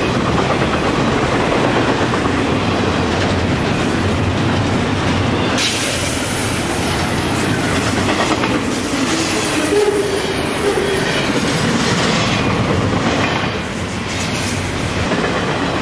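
Intermodal freight train passing at speed: the steel wheels of double-stack container cars and trailer flatcars rumble and click steadily over the rails. A faint wheel squeal comes in about ten seconds in.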